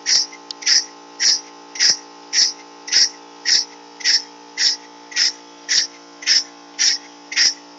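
Homemade steam traction engine running slowly, its exhaust chuffing in a steady beat of sharp hissing puffs, a little under two a second, over a steady hum.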